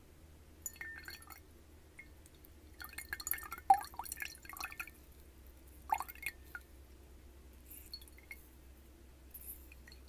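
Water dripping and splashing in a glass, with small glassy clinks, in scattered bursts. The busiest stretch runs from about three to five seconds in, with a sharp plop near six seconds.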